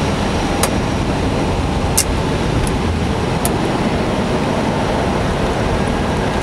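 Steady rushing of airflow and engine noise inside an Airbus A320 cockpit on approach, with a few short clicks in the first half.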